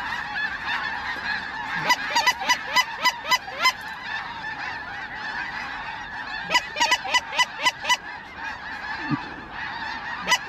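A large flock of snow geese calling constantly, a dense honking chorus. Twice, runs of louder, close honks come about four a second over the top of it.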